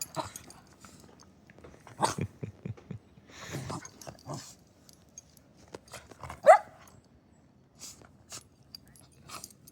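A dog barks once, sharply, about six and a half seconds in, amid scattered short crunching and rustling noises of a dog biting and eating snow.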